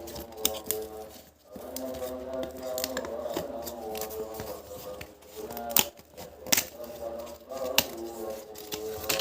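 Sharp clicks of toy puzzle pieces being handled and fitted together, a handful of separate snaps, the loudest about six seconds in and near the end, over steady background music.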